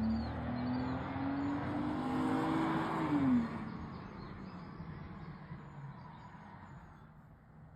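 BMW 128i's 3.0-litre straight-six accelerating, its note rising for about three seconds, then dropping sharply as the throttle lifts. The engine sound then fades steadily as the car moves away.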